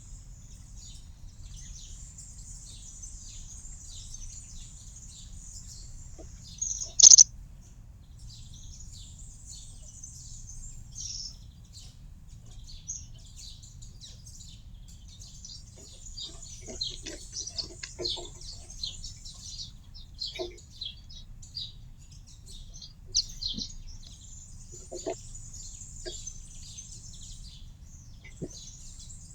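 Small songbirds singing high, jingling trills and chirps in runs of a few seconds with short gaps. A single sharp click about seven seconds in is the loudest sound, over a faint low rumble.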